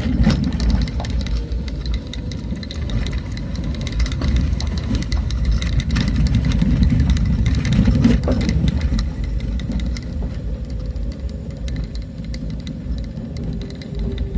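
A motor vehicle driving on a rough road: a continuous low engine and road rumble, with frequent small knocks and rattles.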